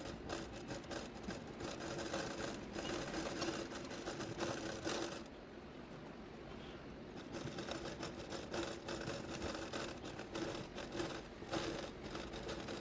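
Needle and thread being worked through fabric stretched in an embroidery hoop, with a run of irregular small clicks, taps and thread pulls and a short lull in the middle.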